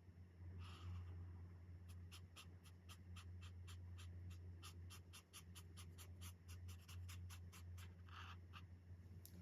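Chen Rui alcohol marker tip scratching across colouring-book paper in quick short strokes, about four a second, with a longer stroke near the start and another near the end. A low steady hum runs underneath.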